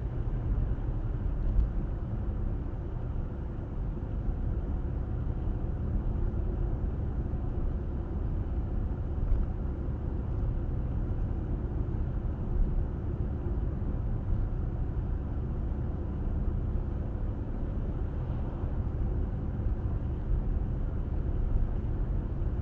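Car driving at steady speed: continuous low rumble of tyre and road noise with the engine underneath, heard from inside the cabin, with a few brief louder bumps.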